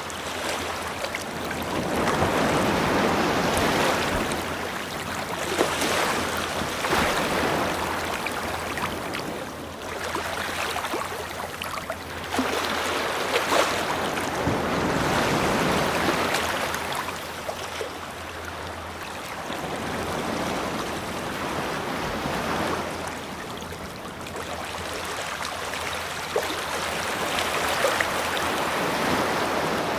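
Ocean surf: waves breaking and washing up the shore, swelling and easing every few seconds.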